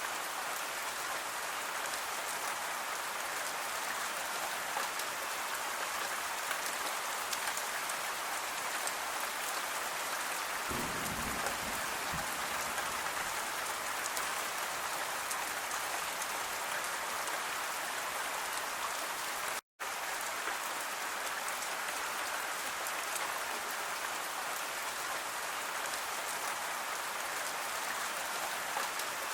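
Steady rain falling, a dense even patter of drops on a surface. A short low rumble comes about eleven seconds in, and the sound cuts out for an instant just before twenty seconds.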